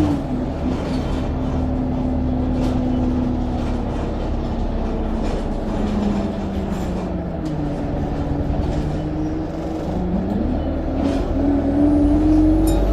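A bus engine heard from on board. Its note sinks slowly as the bus eases off, then climbs again from about ten seconds in as it accelerates, and a faint high turbo whistle starts to rise near the end.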